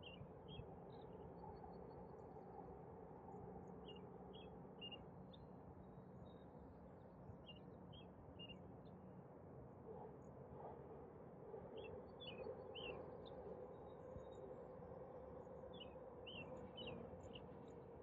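A small songbird repeating a short phrase of three or four quick, falling chirps every few seconds. Underneath is a faint, steady hum of distant city noise.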